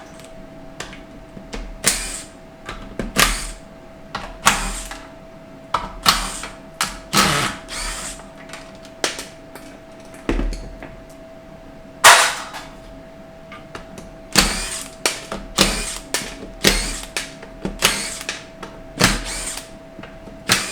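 Short bursts of a power tool and metal clicks, roughly once a second, as bolts are run out of a 4L60E transmission's oil pan.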